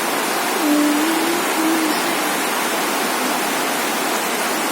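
Heavy rain pouring down, a steady dense hiss. A faint voice is heard briefly about a second in.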